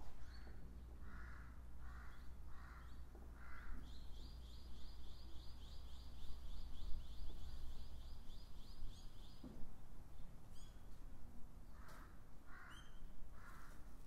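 Wild birds calling: a string of five short, harsh calls near the start and three more near the end. Between them, a rapid, even run of high notes lasts about five seconds. A faint steady low hum sits beneath the first half.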